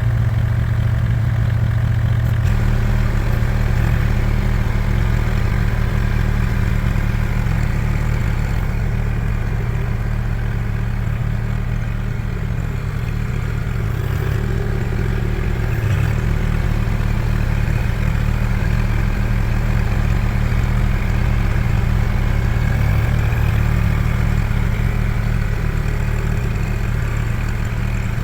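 An engine idling steadily, with an even low hum that barely changes.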